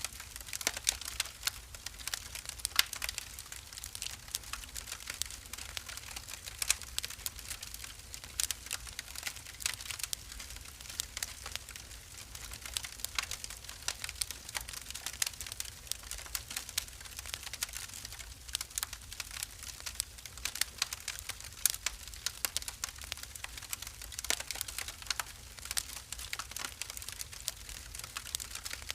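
Wood fire crackling steadily in a fireplace, with many irregular sharp pops and snaps over a low rumble.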